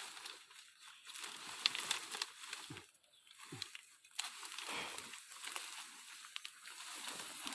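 Leafy branches and dry leaves rustling and crackling in uneven swells, with small sharp snaps of twigs.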